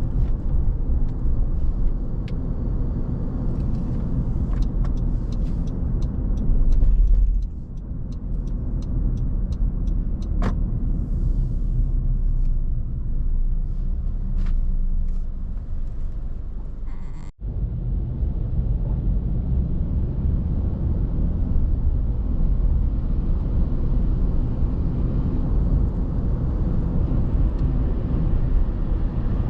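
Car driving along a road: a steady low rumble of tyres and engine. A run of faint clicks comes in the first ten seconds, and the sound cuts out for an instant about 17 seconds in.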